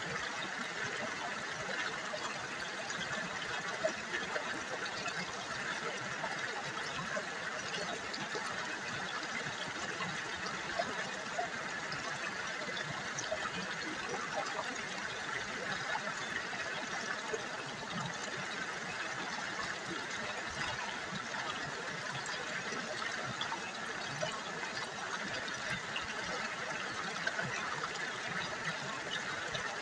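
River water babbling and trickling over stones, a steady splashing murmur with small droplet ticks.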